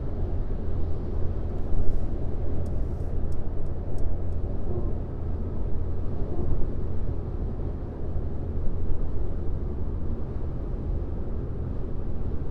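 Car driving at highway speed: a steady low rumble of tyres and engine, with a few faint high clicks a few seconds in.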